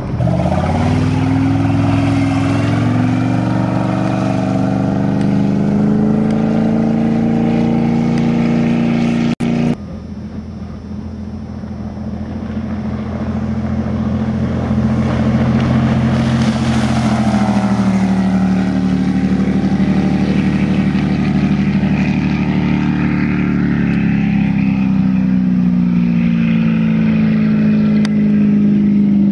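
Mercruiser 454 Magnum big-block V8 pushing a speedboat through a Bravo 1 sterndrive at speed, its pitch climbing at the start and then holding, with rushing wind and water over it. There is a sudden break about a third of the way in, after which the engine is quieter, builds back up and wavers in pitch.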